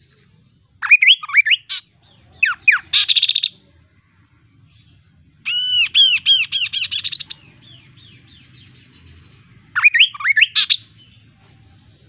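Kaso-kaso bird singing: four short phrases of quick whistled notes. The third phrase, about five seconds in, is a longer run of rapidly repeated chirps.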